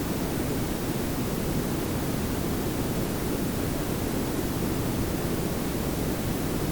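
Steady synthetic noise: pink noise and brown noise layered together, an even hiss over a heavier low rumble, unchanging throughout.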